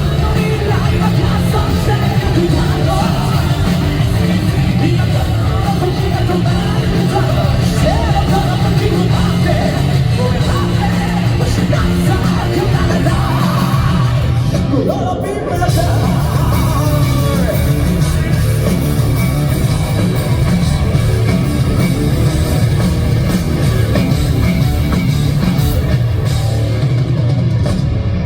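Live J-rock band playing loud through a concert PA, with distorted electric guitars, a heavy bass and drum low end, and a male lead vocal. The music thins out briefly about halfway through, then comes back at full force.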